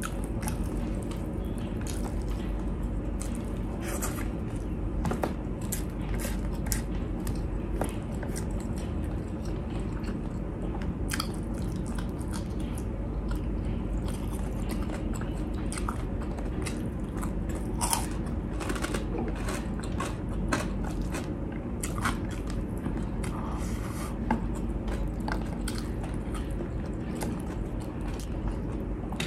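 A person chewing and eating with the hands: frequent wet clicks and smacks of the mouth, with some crunching, over a steady low hum.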